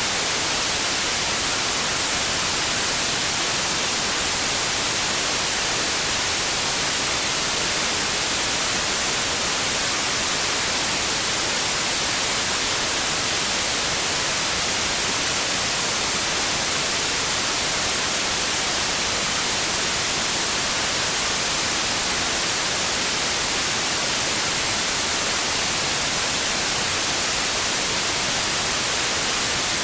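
White noise: a steady, even hiss across the whole range, brightest in the treble, with no change.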